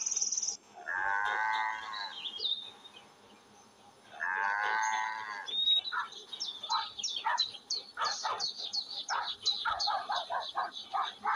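A baby elephant calls twice, each drawn-out call about a second long with a wavering pitch. Then a dog gives a run of short, sharp barks that come faster toward the end.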